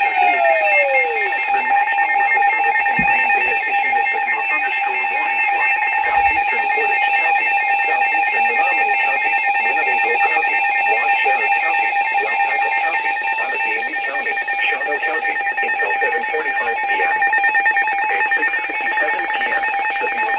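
Emergency alert tones for a severe thunderstorm warning: steady, piercing tones that pulse rapidly and sound without a break, with a faint voice under them.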